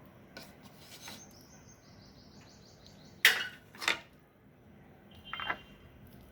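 Metal kitchen utensils knocking against a dish while the filling is handled: a few light clicks, two sharp knocks about three seconds in, and a short ringing clink near the end.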